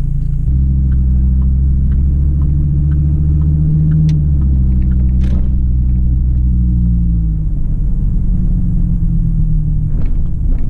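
Car engine and road rumble heard from inside the cabin while driving, a steady low hum whose pitch rises slightly and then drops about seven seconds in as the car eases off.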